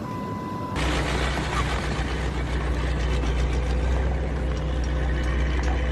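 A vehicle engine running steadily with a low, even hum, which starts abruptly under a spread of noise about a second in. Before it, a short steady high tone sounds.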